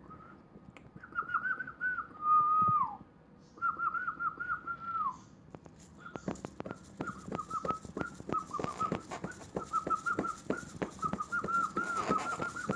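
Parrot whistling a warbling tune of repeated wavering notes, one of them sliding down about three seconds in. From about halfway on, the whistling continues over a run of rapid sharp clicks.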